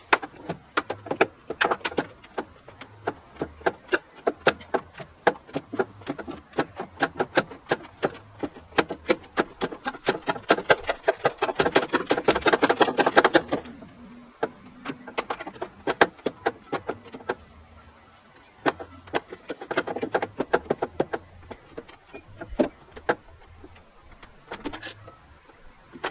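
Rapid, irregular clicking and knocking from hand tools working a part loose on the car's front end. It comes several times a second, runs almost without a break for a few seconds near the middle, then comes in sparser patches.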